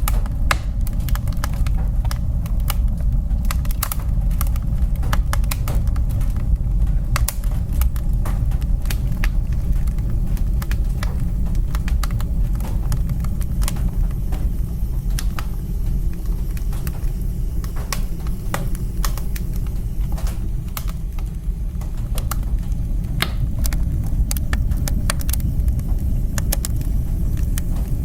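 Wood fire burning in a fireplace: dense, irregular crackles and pops over a steady low roar.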